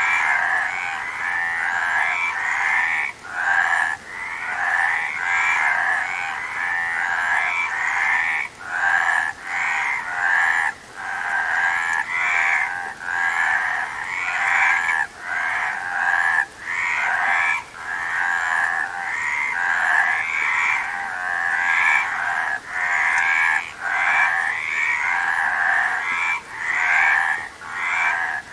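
Frogs croaking: a dense, continuous pulsing call that drops out briefly every second or two.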